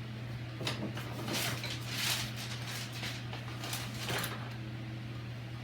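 Rummaging through hardware and tools: several short rustling and scraping handling noises spread over a few seconds, over a steady low hum.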